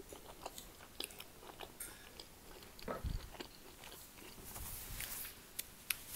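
Close-miked chewing of tender lamb shank meat: soft, wet mouth sounds with many small scattered clicks, and a low thud about three seconds in.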